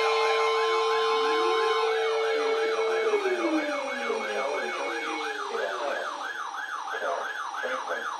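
Sirens: a steady siren tone holds and then winds down about three seconds in, while a second siren warbles rapidly up and down, about three times a second, through to the end.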